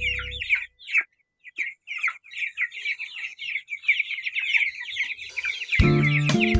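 A flock of month-old kampung chicks peeping: many short, falling chirps overlapping without a break.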